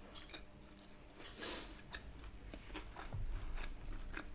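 A person chewing and crunching crispy fried salt and pepper chicken, with many small crisp clicks of teeth and food and one louder crunch about a second and a half in.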